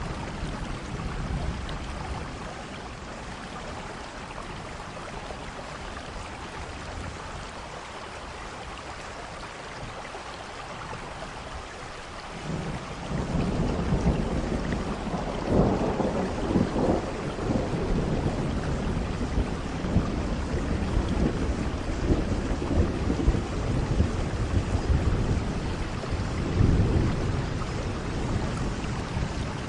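Steady rain, with a long roll of thunder setting in about halfway through and rumbling on, swelling and fading, nearly to the end.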